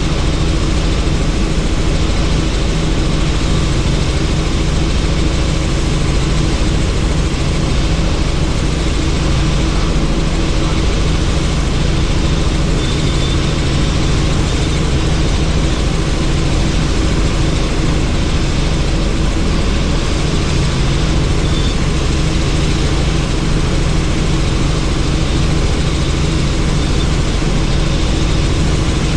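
Helicopter in flight, heard from inside its doors-off cabin: steady rotor and engine noise with a rush of air, holding level throughout.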